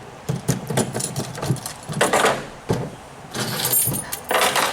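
Metal hand tools clinking and clattering with scattered knocks, a short burst about two seconds in and a longer jangling stretch near the end.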